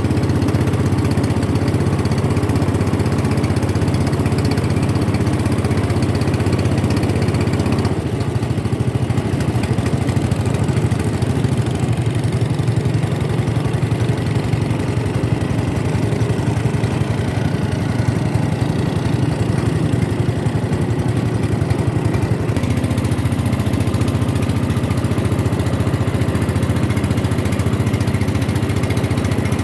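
Boat engine running steadily, a low, even hum that shifts slightly in tone about eight seconds in and again near the end.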